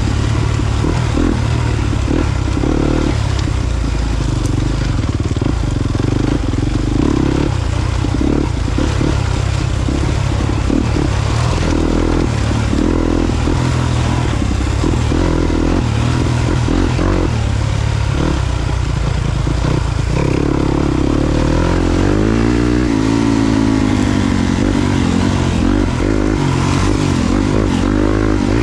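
Yamaha YZ250FX four-stroke single-cylinder dirt bike engine under way on a trail, the throttle opening and closing in short blips, then the revs rising and falling in longer sweeps over the last several seconds.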